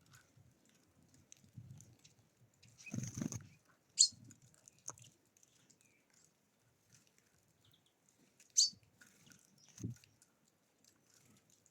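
Small birds at a feeder: a few short, sharp high chirps, one about four seconds in and one about eight and a half seconds in, with a brief noisy burst about three seconds in and faint low rustling between.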